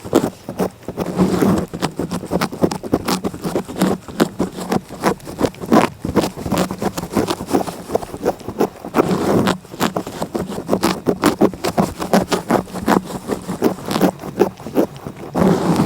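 A cat licking right at the microphone, quick irregular tongue strokes several a second.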